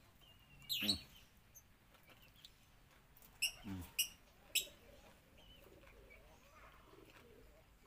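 Songbird chirping in short, sharp high calls, three of them about half a second apart around the middle, with a few fainter chirps between. Twice a short low voice sound from the eater.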